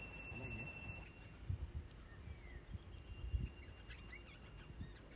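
Faint outdoor ambience with a few short, faint bird chirps over a low rumble and a couple of soft thumps. A thin, steady high tone stops about a second in.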